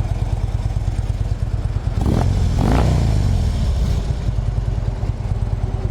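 2013 Harley-Davidson Street Glide's 103-cubic-inch V-twin idling through Rinehart slip-on mufflers, with the throttle blipped once about two seconds in: the engine note rises and louder, then settles back to idle within a couple of seconds.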